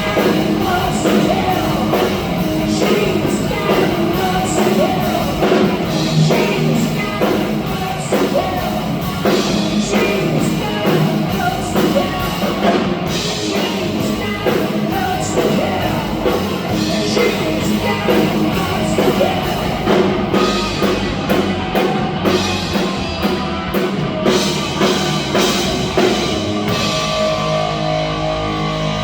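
Live heavy metal band playing loudly: singing over electric guitar and a drum kit. Near the end the dense playing thins out to held, ringing notes.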